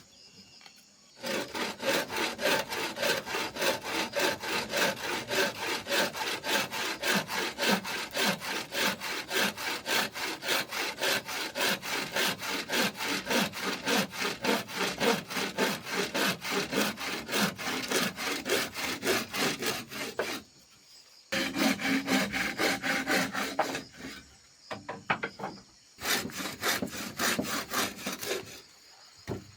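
Hand saw cutting through wood in quick, even back-and-forth strokes, stopping briefly twice and resuming.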